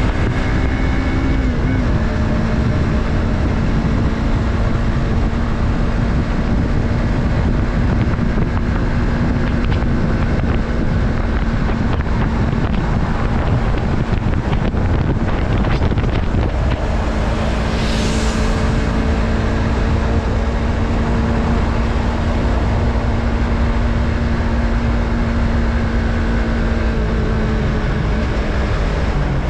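Yamaha MT-03's 321 cc parallel-twin engine running at a steady cruise, with wind rushing over the microphone. A brief hiss swells and fades about two-thirds of the way through.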